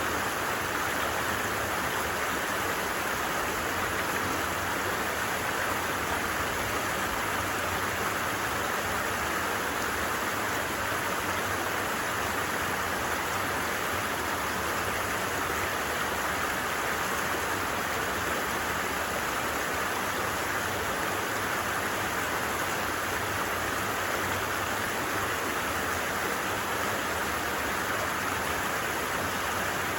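A creek's flowing water making a steady, unbroken rush.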